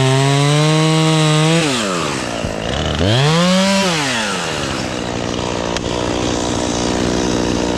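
Two-stroke chainsaw running at high throttle, then let off about one and a half seconds in. It gives one brief rev about three seconds in and drops back to a lower idle.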